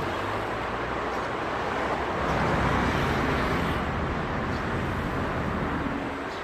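Outdoor road traffic noise: a steady wash of passing cars, swelling a little in the middle.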